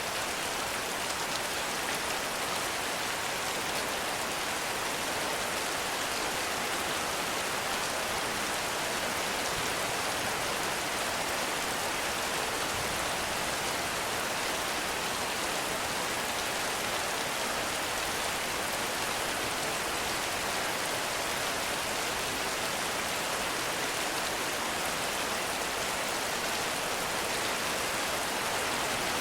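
Heavy rain falling steadily in a forest, a dense even hiss of drops on leaves and ground.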